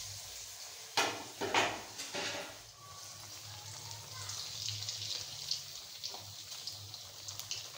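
Slabs of potato-and-semolina mixture deep-frying in hot oil in a wok: a few loud bursts of sizzling about a second in as pieces go into the oil, then steady sizzling with small crackles as they are turned with a metal spoon.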